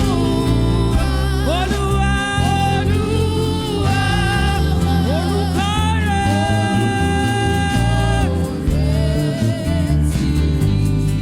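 Gospel worship singing: a lead voice slides into long held notes over instrumental backing with a steady bass line.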